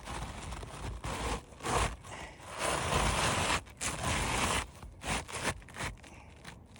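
Asphalt shingle being slid back into place under the course above, gritty scraping and rustling in irregular strokes that die down near the end.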